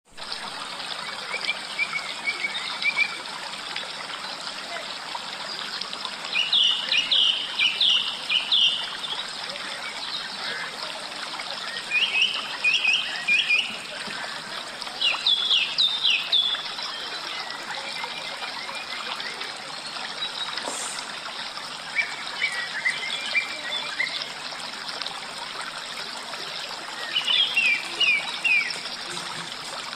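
Forest stream flowing with a steady rush. A songbird sings over it about six times, each song a quick run of five to seven sharp notes lasting a second or two.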